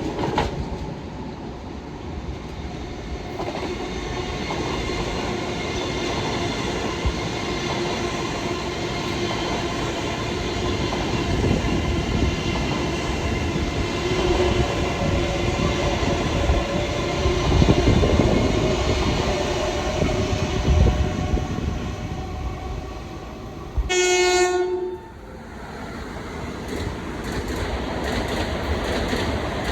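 Long Island Rail Road train running through on the rails with a steady rumble and wheel clatter. About 24 seconds in, its horn gives one short blast of about a second.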